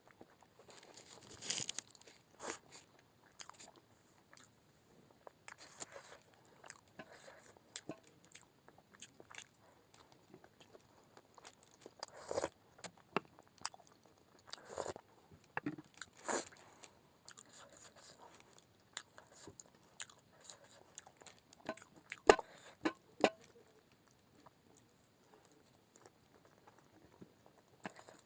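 A person eating momos close to the microphone: chewing and biting with scattered short wet smacks and clicks, the sharpest about three-quarters of the way through.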